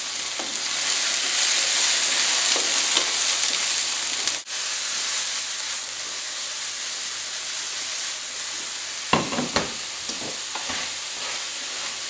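Steady frying sizzle from sliced porcini in hot oil over full heat and risotto rice reducing its white wine. The sizzle briefly cuts out about four seconds in. A few short knocks of a wooden spatula on the pan come about nine seconds in as the rice is stirred.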